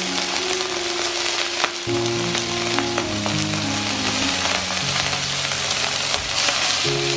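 Food sizzling as it fries in a stainless steel wok: a steady hiss with a few faint ticks, over soft background music with held notes.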